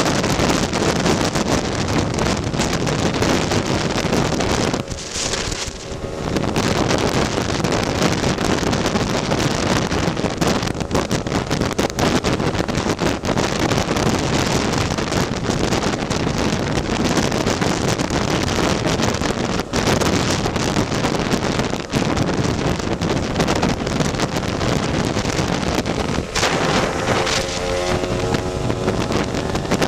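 Wind buffeting the microphone on a moving Lambretta scooter, with its two-stroke single-cylinder engine running underneath. The wind drops briefly about five seconds in and again near the end, letting the engine's pitched tone through.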